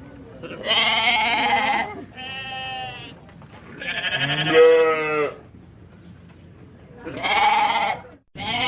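Bleating from a sheep or goat-type farm animal: five wavering calls of about a second each, separated by short pauses, the third the loudest.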